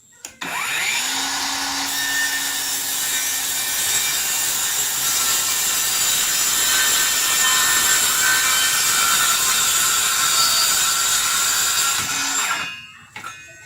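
Circular saw starting with a rising whine, then cutting through wood in one long steady pass of about eleven seconds, and winding down with a falling whine near the end.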